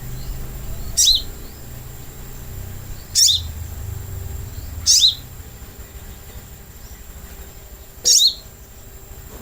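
Sogok ontong sunbird calling: four short, sharp, very high calls, each a quick downward sweep, spaced about two to three seconds apart, over a low steady hum.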